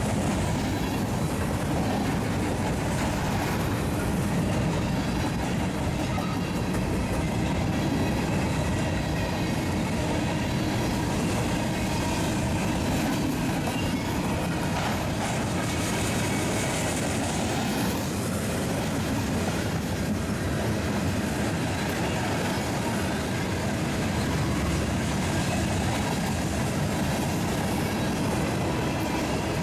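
Train rolling past on the track: a steady, continuous rumble of railcar wheels on the rails, with some clatter over the rail joints.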